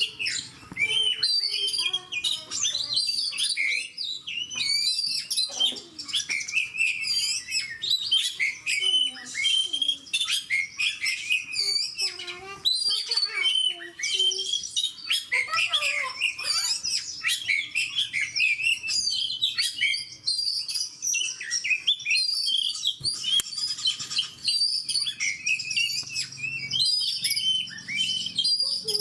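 Oriental magpie-robin singing nonstop in full voice: a rapid, varied run of high whistles, trills and chattering notes.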